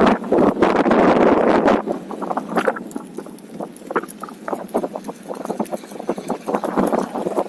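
Onewheel electric skateboard rolling over a rough trail surface. A rush of tyre and wind noise fills the first two seconds, then gives way to a quick, uneven run of knocks and clatter.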